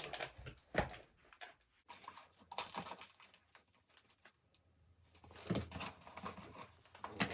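Small items and packaging being handled: scattered light clicks, taps and rustling, quieter in the middle and busier again near the end.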